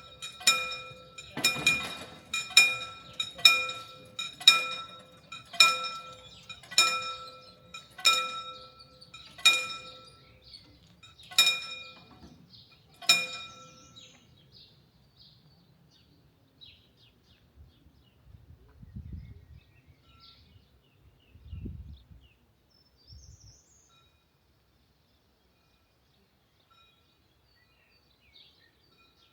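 Level-crossing warning bell ringing in single ringing strikes, at first about two a second, then slowing to nearly two seconds apart and stopping about thirteen seconds in. Three low thuds follow near the end, with faint bird calls.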